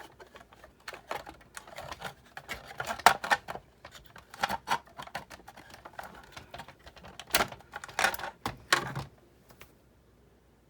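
Irregular clicks, taps and knocks of parts being handled and fitted back into a Sizzix Big Shot die-cutting machine during reassembly. They stop about nine seconds in.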